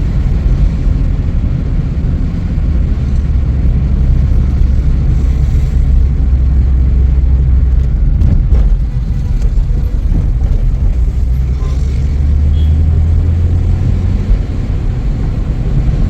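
Car being driven, heard from inside: a steady low engine and road rumble, with a few faint knocks about halfway through.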